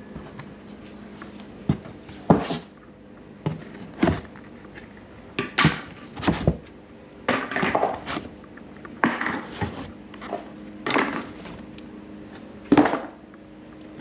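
Irregular knocks, clatters and short scrapes of things being handled during an unboxing, about a dozen over the stretch, each sudden and brief.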